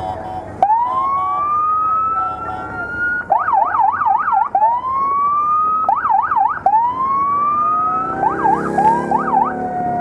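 Police motorcycle electronic sirens cycling between a rising wail and a fast yelp, switching back and forth several times.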